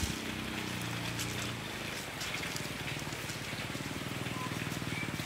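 Rain falling, with scattered drops ticking close by, over a low steady hum that is plainest in the first two seconds.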